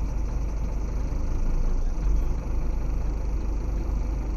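Scania truck's diesel engine running with a steady low rumble.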